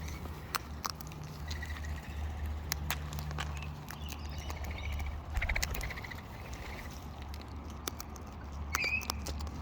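Wild parrots feeding on birdseed at close range: irregular sharp clicks and cracks of beaks on seed, with a few soft chirps over a low steady rumble.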